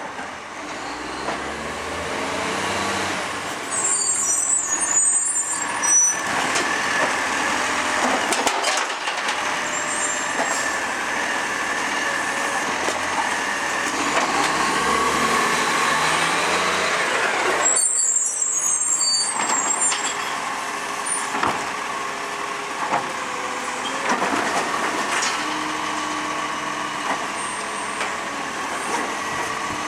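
ACCO side-loader recycling truck working a street: its engine rises from idle and drops back again to drive the bin-lifting arm and compactor hydraulics. Two short high-pitched hisses come about 4 and 18 seconds in.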